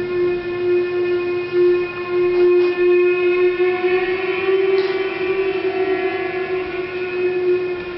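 One long, steady, horn-like tone with overtones, wavering slightly around the middle.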